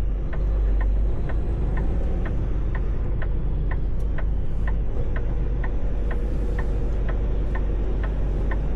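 Semi-truck turn signal clicking evenly, about three ticks a second, over the steady drone of the truck's diesel engine inside the cab.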